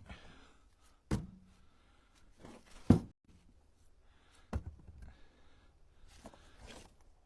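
Split ash firewood pieces knocking against each other as they are stacked by hand in a pickup truck bed: three sharp knocks about a second and a half apart, the middle one loudest, then a lighter one.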